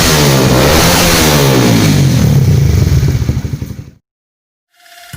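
Honda CB150R StreetFire motorcycle engine revved through a Yoshimura USA-style aftermarket racing exhaust, its pitch repeatedly falling and rising as the throttle is blipped; a smooth exhaust note. The engine sound fades and cuts off abruptly about four seconds in, and music fades in near the end.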